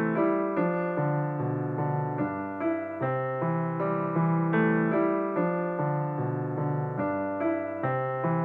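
Solo piano music: a gentle run of notes struck at an even pace, each ringing and fading into the next.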